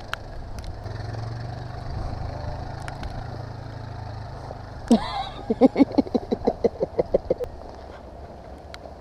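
An ATV engine running with a low steady hum that fades after about four seconds. About five seconds in, a sharp rising-and-falling cry, then a quick run of about a dozen short pitched calls, some six a second, lasting two to three seconds.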